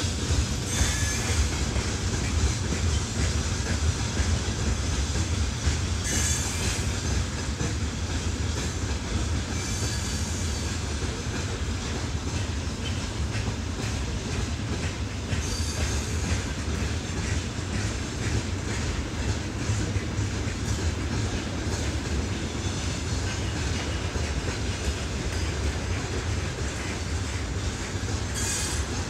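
Freight train wagons rolling past at close range: a steady low rumble of wheels on rail, broken several times by brief high-pitched wheel screeches.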